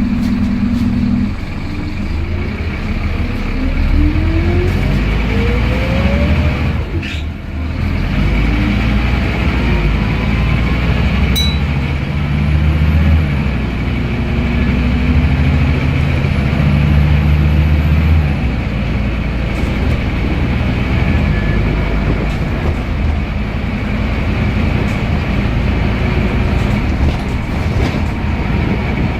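Scania N230UD double-decker bus's five-cylinder diesel and ZF Ecomat automatic gearbox under way. A whine rises in pitch over the first few seconds, dips briefly, then the bus runs on steadily with a constant engine drone.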